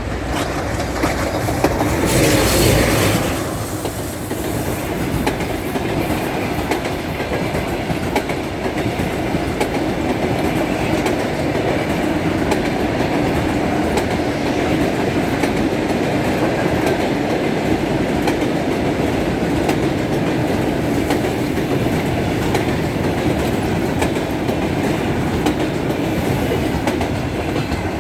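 EP20 electric locomotive and its train of passenger coaches passing at speed. The loudest surge comes about two to three seconds in, followed by a steady rumble with rapid clicking of wheels over rail joints as the coaches roll by.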